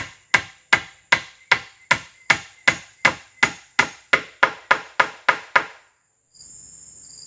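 A tool strikes wood with rapid, evenly spaced chopping blows, about three a second, and stops about six seconds in. A steady, pulsing chirr of insects follows.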